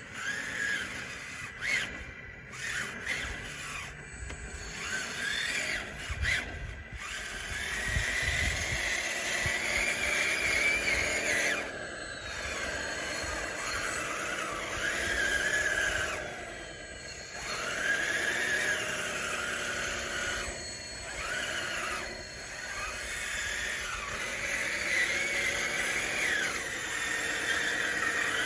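RC bulldozer's electric drive whining, its pitch rising and falling over and over as the dozer works back and forth pushing dirt, with a few short breaks.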